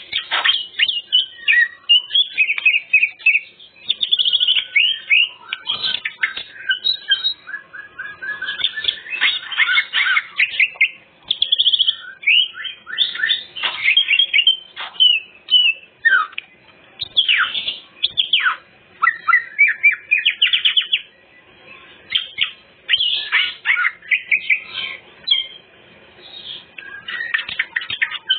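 Green leafbird (cucak ijo) singing a fast, varied run of chirps, trills and whistled phrases in bursts with short pauses, showing off its full repertoire of learned and mimicked song phrases ("isian").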